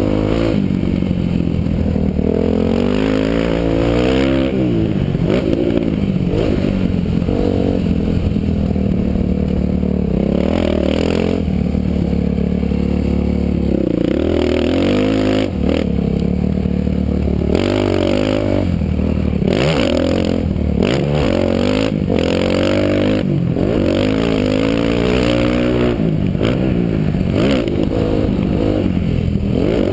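Motocross dirt bike engine revving up and falling back again and again as it is ridden around a track, heard from a helmet camera, with wind rush and repeated short knocks.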